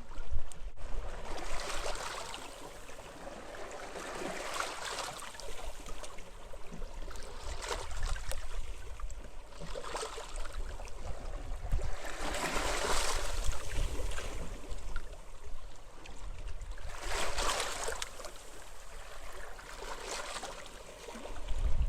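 Small sea waves washing onto a beach, one swell of surf every two to four seconds. Wind rumbles on the microphone, heaviest at the start and again near the end.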